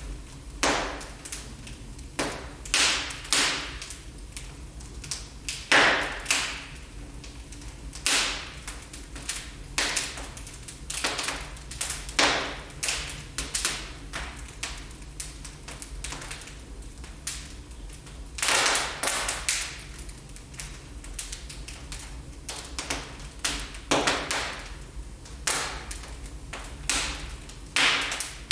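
Wood fire burning in a fireplace, crackling with irregular sharp pops, a dozen or so louder ones spaced unevenly over a steady low background.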